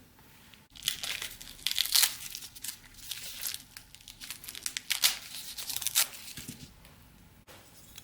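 Irregular crisp crinkling and rustling, with several loud crackles, starting about a second in and dying away after about six and a half seconds.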